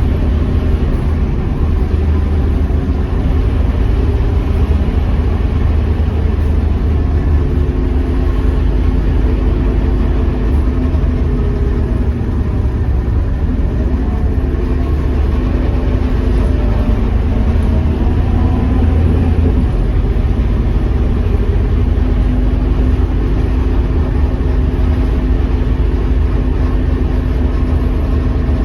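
Scania K230UB bus's diesel engine running steadily on the move, a continuous low engine sound whose note shifts a little as it goes.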